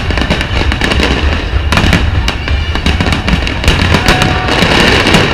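Fireworks going off: a dense run of sharp bangs and crackles over a steady deep rumble, with music playing at the same time.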